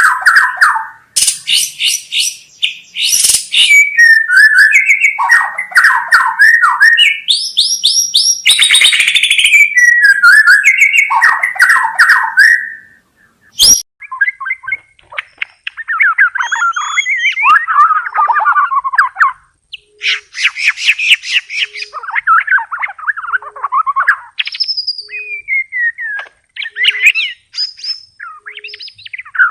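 White-rumped shama (murai batu) singing a long, loud, varied song of clear whistles, sweeping notes and rapid chattering trills, phrase after phrase with only brief gaps. A single sharp click cuts in about fourteen seconds in.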